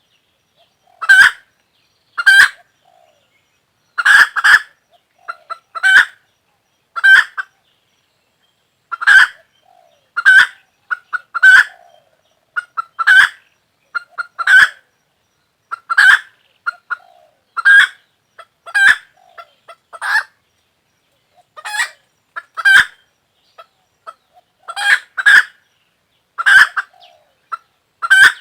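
A chicken giving short, loud calls over and over, roughly one a second, some in quick pairs, with silence between them.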